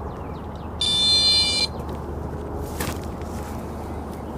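Electronic carp-fishing bite alarm sounding: one high-pitched beep lasting just under a second, about a second in, and a short beep at the very end. It signals a fish taking line on one of the rods.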